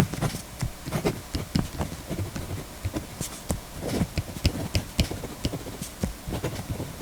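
Mechanical pencil writing on paper at a desk: irregular quick taps and scratches as the lead strokes across the sheet and the hand knocks on the desk.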